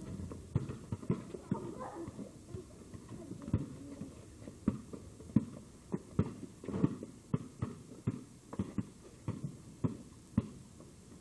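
A run of irregular knocks and thuds, roughly two or three a second.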